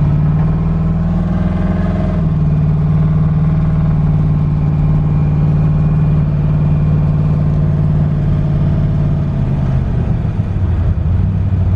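Twin-turbo LS V8 in a Fox-body Mustang, running without mufflers, droning steadily at low cruising revs, heard from inside the car. About ten seconds in the revs drop to a lower note as the car slows.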